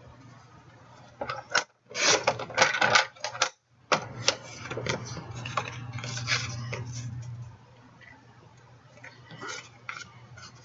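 Crafting tools and paper being handled on a tabletop: a run of sharp clicks and clatter, busiest in the first few seconds, then fainter taps near the end.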